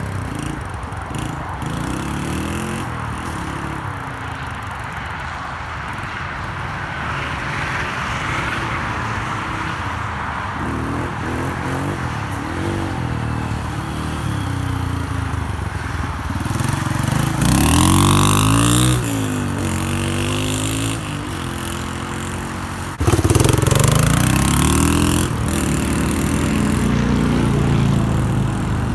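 Yamaha TT-R125 dirt bike's single-cylinder four-stroke engine being ridden, its stock exhaust modified with the spark-arrestor baffle spaced out on bolts for a deeper note. The engine revs rise and fall throughout, with two louder pulls, one about two-thirds of the way in and one starting suddenly near the end.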